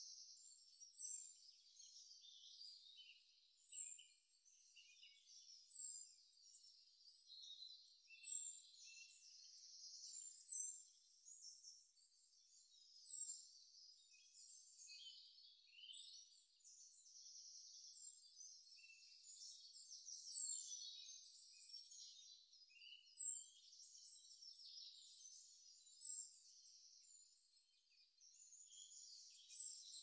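Faint birdsong: a short, high falling chirp repeats about every two and a half seconds over a steady chatter of other high bird calls.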